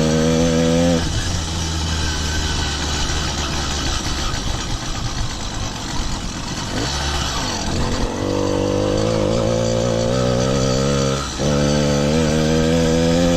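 Small engine of a motorized bicycle running under way. Its steady note drops out about a second in, comes back with a rising sweep around eight seconds, and holds again with a short dip a few seconds later.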